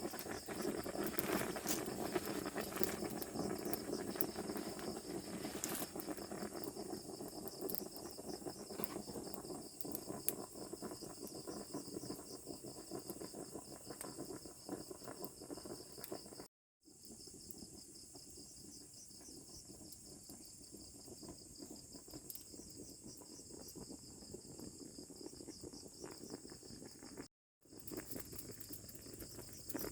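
Crickets chirping in a steady rapid pulse over the crackle and small pops of a campfire. The crackle is louder in the first half and drops after a brief cut-out about halfway through; the sound cuts out briefly again near the end.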